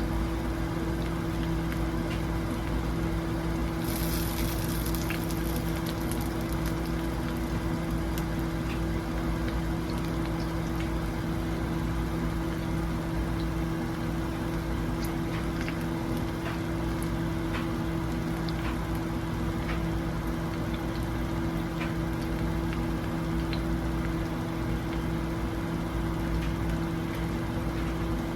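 Food frying in a pan: a steady sizzle with scattered small pops over a steady low hum, and a brighter, louder hiss for about two seconds, starting about four seconds in.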